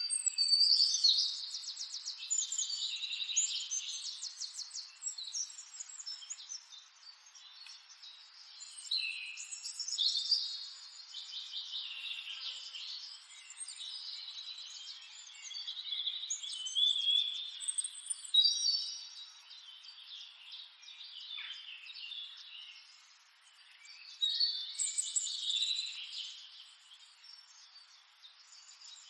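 Birds singing: a run of fast, high trilled and chirping phrases a few seconds long, with short pauses between them.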